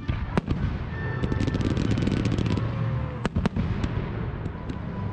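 Fireworks display: shells firing and bursting with sharp bangs, and a dense run of rapid crackling reports in the middle, over a steady rumble of launches.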